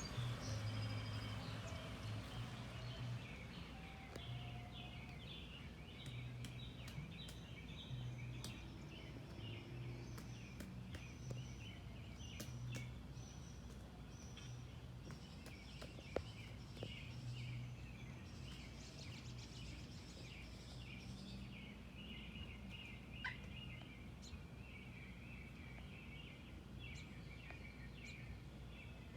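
Many birds chattering, their quick calls overlapping continuously, with a low hum that comes and goes underneath.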